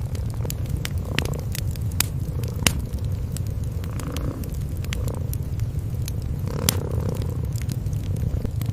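Cats purring, a steady low rumble, under the irregular pops and crackles of a wood fire burning in a fireplace.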